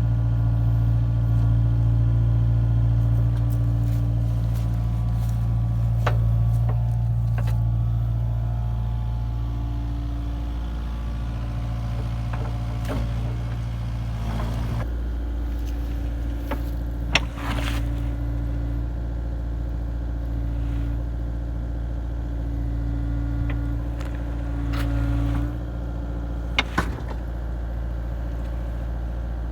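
Kubota KX057-4 mini excavator's diesel engine running steadily as the machine digs, with a higher tone coming and going. Several sharp knocks sound over it, the loudest about halfway through and two close together near the end.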